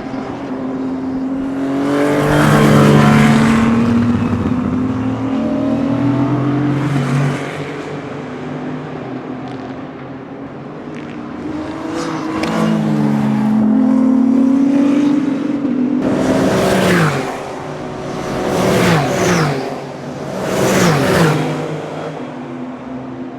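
Endurance racing cars passing at speed one after another. Engine notes swell as each car comes by, and three quick passes near the end drop sharply in pitch as the cars go past.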